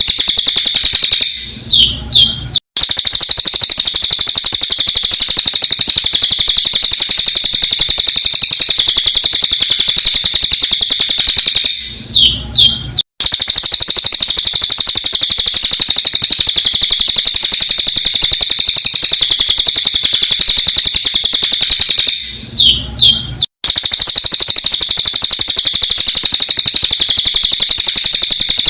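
Sped-up recording of a cililin bird singing a loud, continuous, very rapid run of high, sharp chirps. Three times, about ten seconds apart, the song breaks off for about a second and a half, with a brief low sound and a couple of short notes, as the recording loops.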